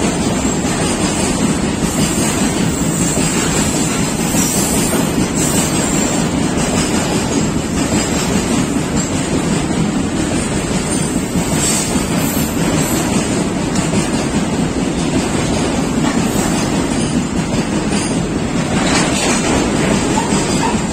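Freight train of BTPN tank wagons rolling past close by: a loud, steady rumble and rush of steel wheels on rail, with a faint click now and then.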